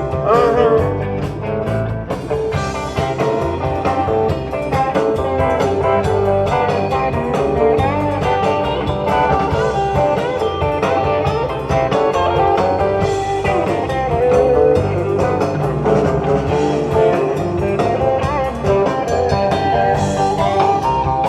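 Live rock band playing an instrumental passage: a guitar line with bending notes over bass and drums, with no singing.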